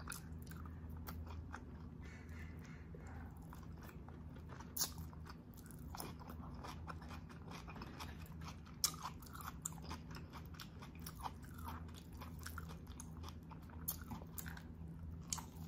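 A person eating close to the microphone: chewing soft braised oxtail and rice with wet mouth clicks and smacks throughout, and near the end biting meat off an oxtail bone held in the hand. A faint steady low hum runs underneath.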